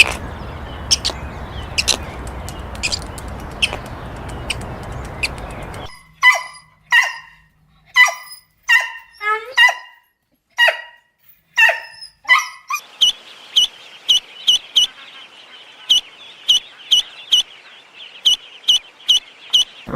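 Animal calls: a noisy stretch with sharp clicks, then about ten separate dog barks, then a steady run of short high-pitched calls, about two or three a second.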